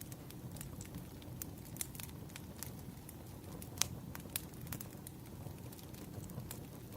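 Crackling wood fire: a steady low rush of burning logs with scattered sharp pops and snaps, the loudest pop just under four seconds in.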